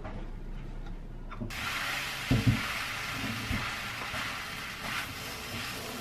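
Kimchi fried rice frying in a pan: a steady sizzle starts about a second and a half in as a spatula stirs it, with a few knocks against the pan a second later.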